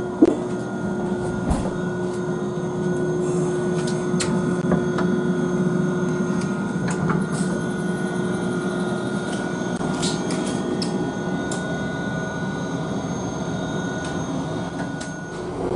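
A train running on its track with a steady whine and scattered sharp clicks throughout.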